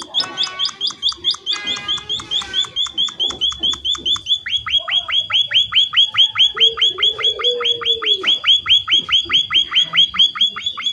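Small emprit finch calling a fast, steady string of sharp chirps, about six a second. About four seconds in, the chirps grow louder and turn into longer down-slurred notes.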